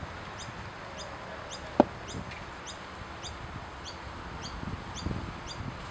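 A bird repeating short, high, falling chirps about three times a second, with a single sharp knock about two seconds in.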